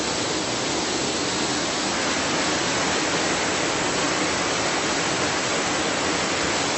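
Waterfall pouring down, a steady rush of falling water.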